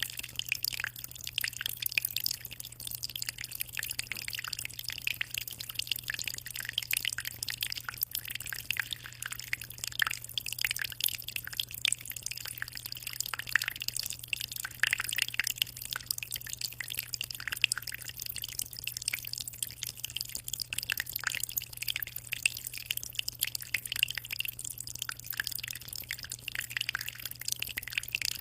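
Aquarium water trickling and splashing in a constant patter of tiny drips and pops, over a steady low hum.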